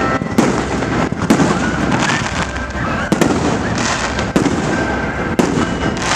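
Fireworks display: loud sharp bangs of bursting shells about once a second, over a continuous rumble and crackle of further bursts.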